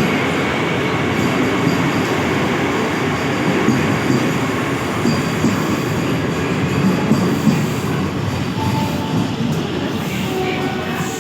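Vande Bharat Express electric trainset running on the rails, a loud steady rumble of wheels and carriages that eases slightly near the end, where a few faint steady tones come in.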